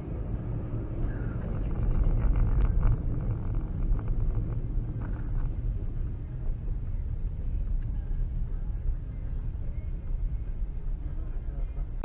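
Steady low rumble of a car driving on the road, with a few faint knocks between about two and five seconds in.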